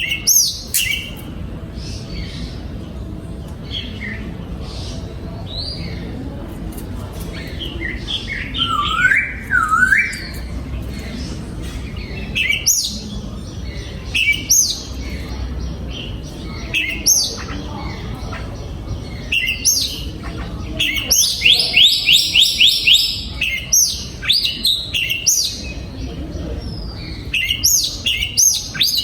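Oriental magpie-robin singing: varied whistled phrases and sliding notes broken by short pauses, with a fast run of rapidly repeated notes about two-thirds of the way through.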